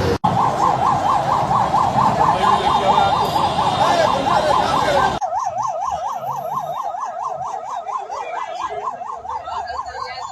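Emergency vehicle siren in a fast warble, rising and falling about four times a second, over heavy street traffic noise. About five seconds in, the traffic noise cuts off abruptly and the siren carries on alone.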